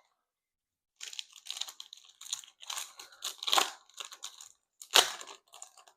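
Foil wrapper of a Topps Chrome trading card pack being torn open and crinkled by hand, with a sharp crackle about five seconds in.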